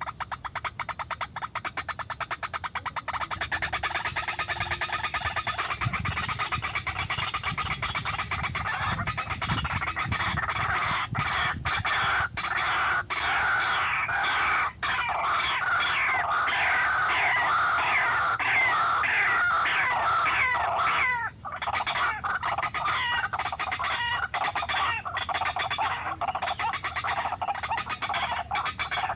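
White-breasted waterhen (ruak-ruak) calling: a loud, unbroken run of rapid repeated notes that pauses briefly about two-thirds of the way through.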